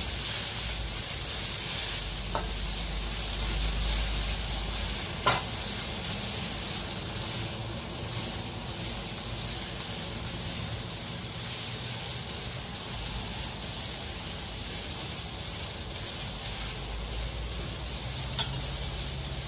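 Julienned carrots and sliced shallots sizzling in hot oil in a wok as a metal spatula stirs them, a steady hiss. A few sharp clicks of the spatula against the wok, the loudest about five seconds in.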